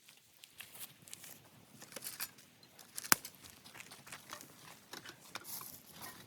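Wood campfire crackling with scattered small pops, and one loud sharp pop about three seconds in.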